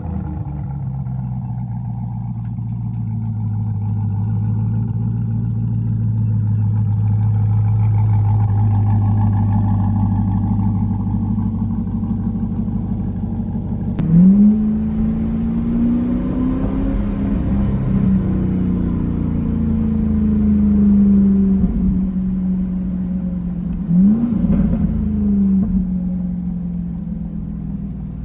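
Corvette E-Ray's 6.2-litre LT2 V8 through an AWE Tuning track exhaust, idling steadily, then revved about halfway through: the pitch jumps up and holds at a higher, wavering rev, with another quick blip a few seconds before the end.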